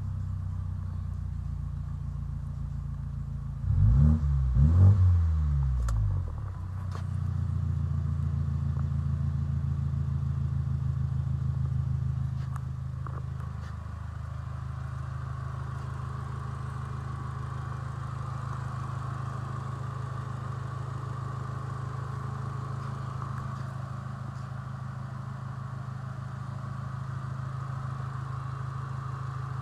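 An engine running on test: revved up and back down twice about four to six seconds in, then settling into a steady idle, dropping a little lower and quieter about twelve seconds in.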